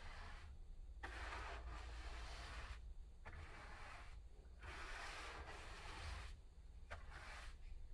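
Old paint being worked off by hand with abrasive strokes: a series of long, even strokes of about a second or more each, with short pauses between.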